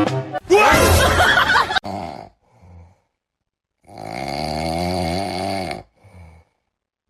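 Loud snoring: long rasping snores repeating about every three seconds, with pauses between breaths.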